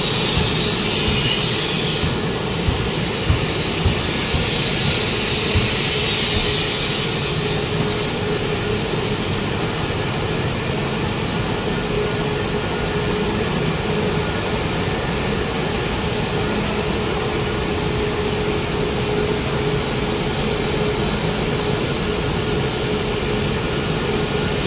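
Wood pellet production line machinery running: a loud, steady industrial drone with a faint steady hum in it. A few knocks come in the first few seconds, and the high hiss drops away at about two seconds and again at about eight.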